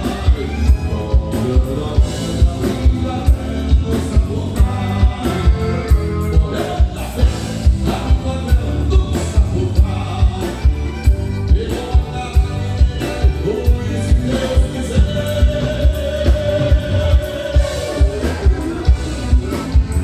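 Live gaúcho band music with singing over a steady, even beat.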